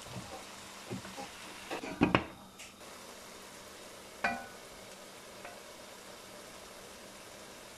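Minced chicken and vegetables sizzling gently in a nonstick wok while a silicone spatula stirs and scrapes, knocking against the pan several times, loudest about two seconds in. A single sharp clink with a brief ring a little past four seconds in.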